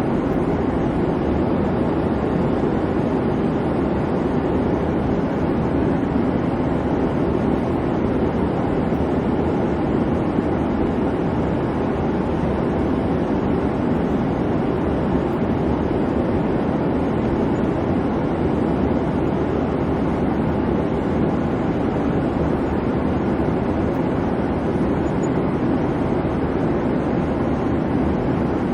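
Airplane cabin noise: a steady, unbroken low rumble of engine and rushing air.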